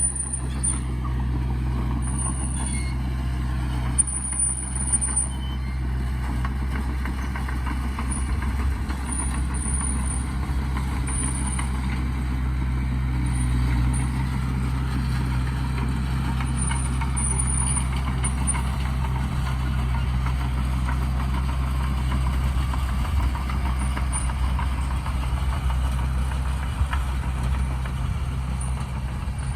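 Heavy diesel earthmoving machinery running with a steady, deep drone. Short high-pitched squeaks come and go over it.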